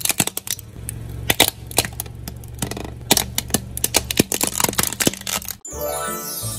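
Crunchy objects cracking and snapping under a car tyre: many sharp, irregular cracks over a low steady engine hum, stopping suddenly near the end.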